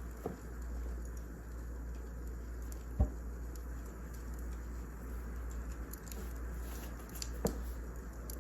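Wood fire crackling with a steady low rumble and scattered small clicks, and a few louder pops, the loudest about three seconds in.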